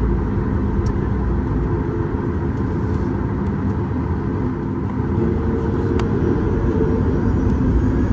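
Cabin noise of a Boeing 737 MAX 8 at takeoff or climb power: the CFM LEAP-1B engines run steadily with a rush of noise and several low hums, a tone shifting slightly a little after five seconds in, and a faint tick about six seconds in.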